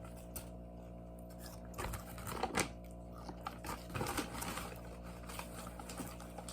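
Electric fan running with a steady hum, with a few short rustles and knocks about two seconds in and again about four seconds in.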